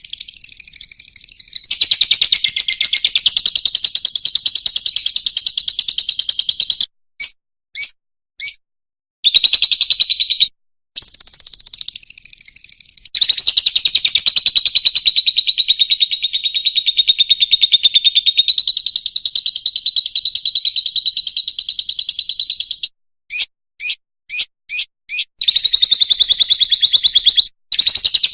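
Fischer's lovebird singing: long, rapid, shrill chattering trills, broken by brief pauses and short runs of separate chirps.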